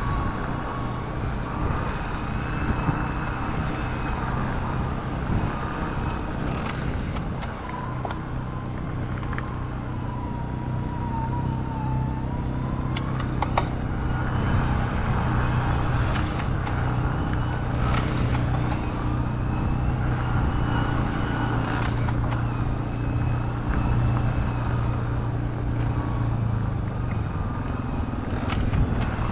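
Riding noise from an e-bike on the move: steady wind on the microphone and tyre rumble under a low hum, with a few scattered clicks and rattles.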